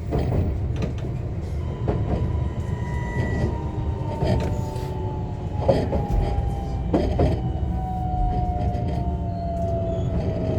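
JR West 125 series electric railcar heard from inside the car: the Toyo IGBT VVVF inverter and traction motor whine as one tone falling steadily in pitch as the train slows, over wheel-on-rail running noise with several knocks of wheels over rail joints, two close together near the middle.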